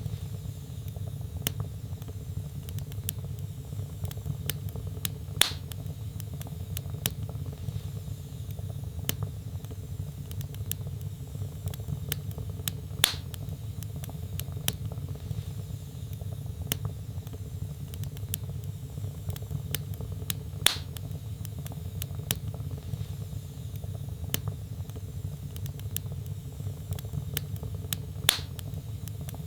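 Wood fire burning in a fireplace: a steady low rumble under many small crackles, with four louder pops at even intervals of about seven and a half seconds.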